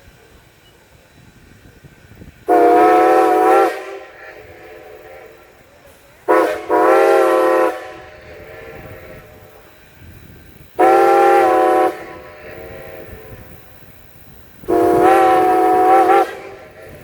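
Steam whistle of Baldwin 2-10-0 Decapod locomotive #90 sounding four long blasts about four seconds apart, whistling for a grade crossing. Each blast is a steady chord of several tones.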